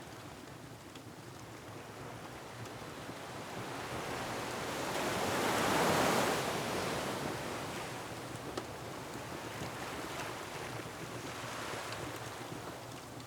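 Ocean waves surging against a rocky shore, one wave swelling to a peak about halfway through and then washing back out, with wind behind it. Faint clicks of a crackling wood fire are scattered through.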